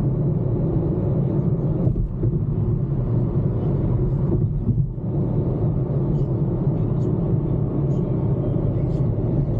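Steady road and engine rumble heard inside a moving car's cabin at highway speed.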